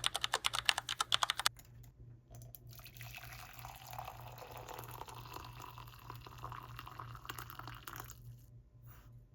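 Quick laptop keyboard typing for about a second and a half, then water pouring steadily into a cup for about six seconds as tea is made.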